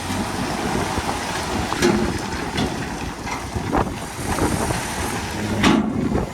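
Heavy construction machinery running, a rough engine rumble mixed with wind on the microphone, with a few short knocks, the loudest near the end.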